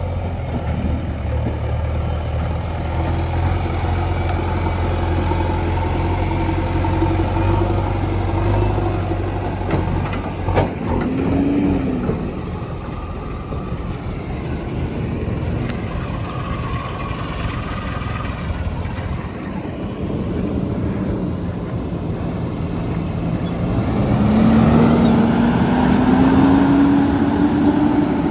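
Heavy diesel machinery engines: a steady low engine note for the first ten seconds, a sharp click about ten seconds in, then the engine revving up and down, with a louder rising rev near the end.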